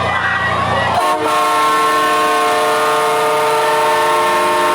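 A horn sounding one long, steady blast of several tones at once, starting about a second in and holding for about four seconds.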